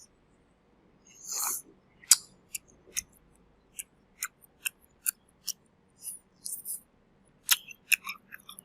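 Crisp fried chicken crust crunching: a run of sharp, irregular crackles and clicks, with a few short noisy crunches among them.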